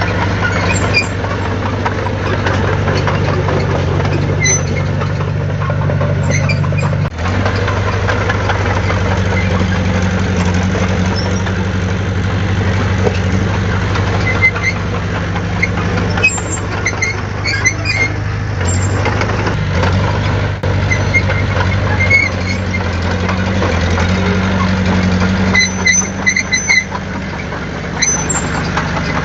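Heavy diesel engine of earthmoving machinery running steadily at a low pitch that shifts a few times, with short high squeaks and clinks over it.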